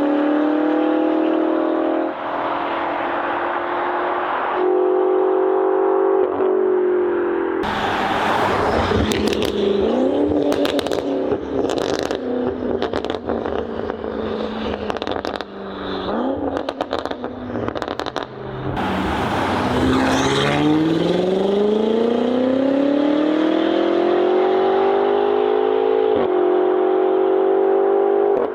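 BMW F90 M5's twin-turbo V8 through an aftermarket exhaust, in several short cut-together clips: revving, then a run of sharp pops and crackles in the middle, then a long rising pull under acceleration.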